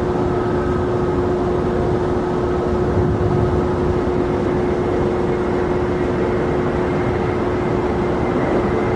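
Jet airliner engines running at a steady pitch: an even, loud rumble with a constant hum through it.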